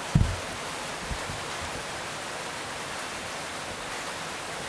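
Steady background hiss, like rain or a fan. A short, low thump comes just after the start, and two softer ones follow about a second later, fitting a durian being handled or bumped as it is set up to be opened.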